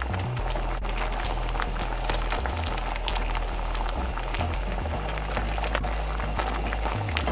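A pot of yellow dal boiling hard, bubbling with a steady crackle of small pops as it is churned with a wooden stick, over background music with a low bass line.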